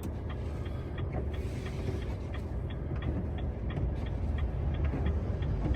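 Truck's windscreen wipers running as a test after a blade was refitted, with a steady ticking about three times a second over the low hum of the idling engine.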